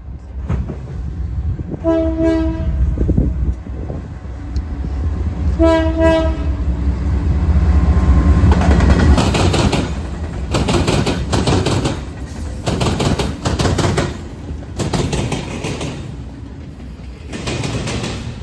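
Locomotive horn sounding two blasts of about a second each, then a train running past, first a heavy rumble and then a rapid clatter of wheels over rail joints.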